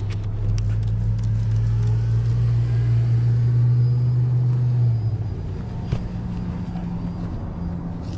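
A car engine running at idle, a steady low rumble that eases off about five seconds in.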